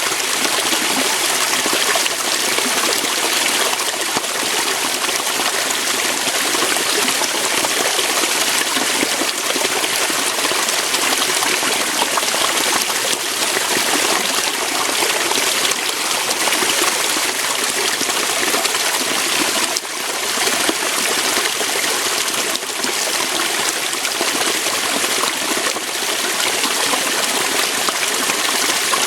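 Waterfall: water pouring and splashing over rocks in a steady, even rush.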